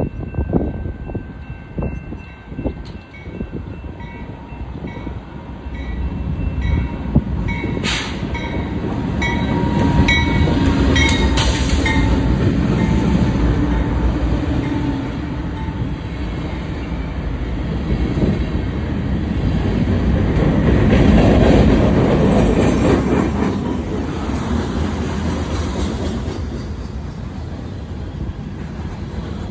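BNSF freight train passing close: the diesel locomotives run by with a heavy, building rumble, followed by tank cars and covered hoppers rolling past with wheels clattering over the rails. A level-crossing bell dings about twice a second through the first half.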